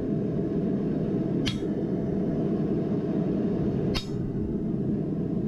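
Hammer striking a chisel to cut veins into a forged steel leaf: two sharp metallic blows with a short high ring, about two and a half seconds apart, over a steady low rumble.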